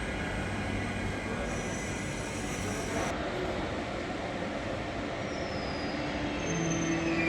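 Train running on the track, a steady rumble of wheels, with brief high-pitched wheel squeal a couple of times.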